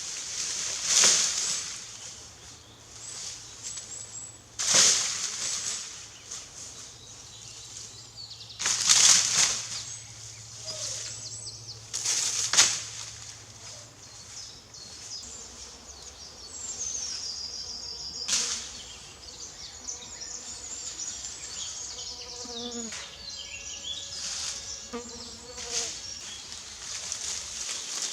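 Several separate swishing, rustling strokes of undergrowth being cut and cleared, about one every three to four seconds in the first part. Thin chirping calls follow in the second half.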